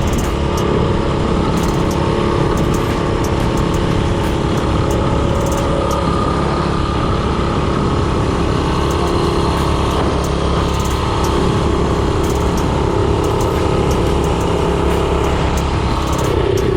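Mini bike's Predator 224cc single-cylinder four-stroke engine running steadily under way, with its pitch dropping near the end.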